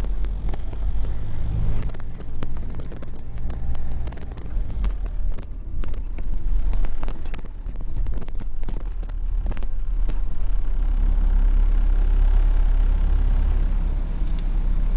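Honda car driving on the road: the engine runs under a steady low rumble, with road noise and wind buffeting on the microphone.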